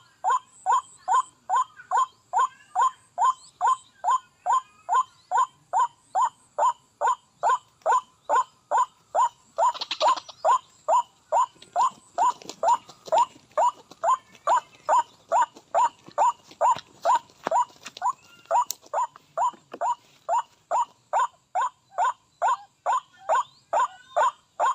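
White-breasted waterhen call, a monotonous 'kwak' note repeated about twice a second with machine-like regularity, played from a bird-caller lure to draw the birds to the snare. A brief rustle comes about ten seconds in.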